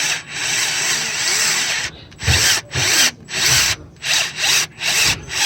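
Cordless drill with a left-handed bit drilling out a broken EGR bolt. It runs steadily for about two seconds, then cuts in and out in a quick series of short bursts, the sign of its battery dying.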